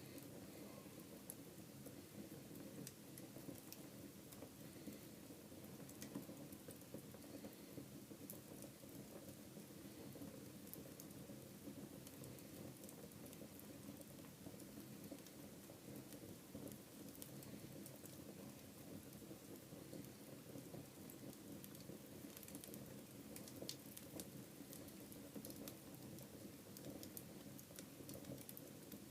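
Wood fire burning in a fireplace: a quiet, steady low rush of flames with frequent small crackles and pops from the burning wood.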